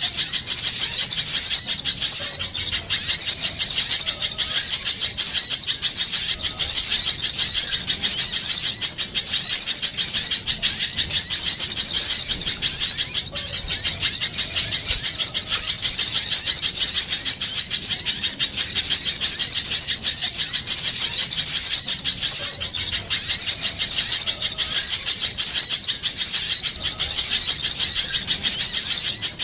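Dense, unbroken chattering and chirping of many small songbirds, rapid high-pitched calls overlapping without pause. This is a bird-lure recording of noisy small birds, played to draw wild birds in for trapping.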